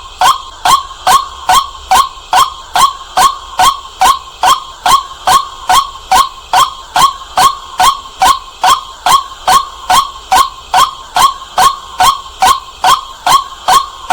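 White-breasted waterhen calling loudly, one short note repeated evenly about two and a half times a second.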